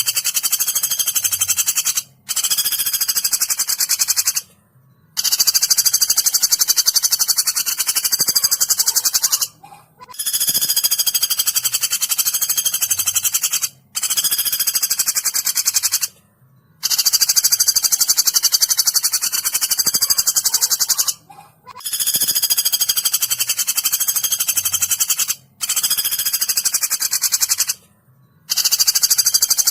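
Woodpecker rattling calls played as a training recording: long, very fast, high-pitched rattles, each lasting two to four seconds, repeated again and again with brief pauses between them.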